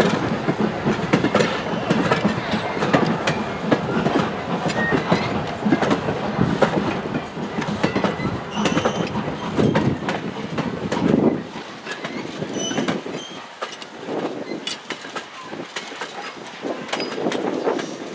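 Passenger train cars rolling past, their wheels clicking over the rail joints with a heavy rumble; the rumble drops away about twelve seconds in and fainter clicking carries on.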